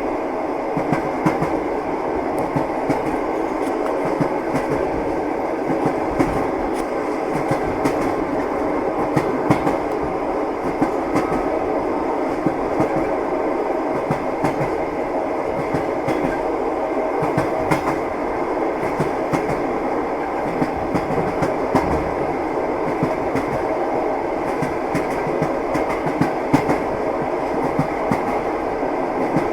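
Train wheels clattering on the rails: a steady running noise with frequent, irregular clicks and knocks from the wheels and carriage.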